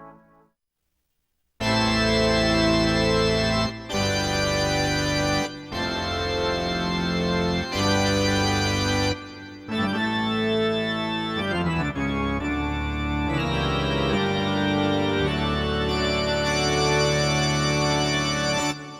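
Korg N364 synthesizer playing an organ-like preset: sustained chords over bass notes, changing every couple of seconds, with a pitch glide a little past halfway. It starts after a short silence and fades out near the end.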